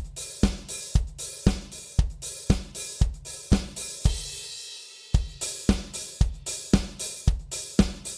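Drum kit playing a steady rock groove, about two strokes a second, with bass drum, snare and a hi-hat opened and closed by the foot. There is a brief break about four seconds in, where the cymbals ring out, before the groove resumes.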